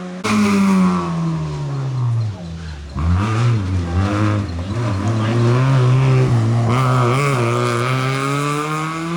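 Rally car engine at full throttle on a stage, its pitch sagging and surging as the driver lifts, brakes and accelerates again. There is an abrupt jump in the sound about three seconds in, and the pitch climbs again near the end.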